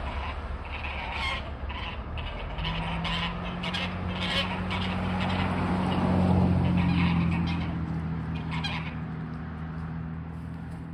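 Snow geese honking, many short overlapping calls from a flock. A steady low hum comes in about two and a half seconds in underneath the calls and swells around six seconds.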